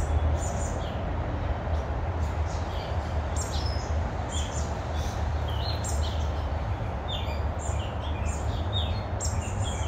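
Birds chirping: short high notes scattered throughout, over a steady low background rumble.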